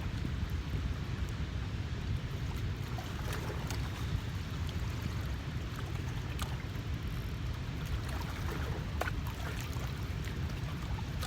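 Steady outdoor noise of moving river water under a low rumble, with a few faint clicks scattered through it.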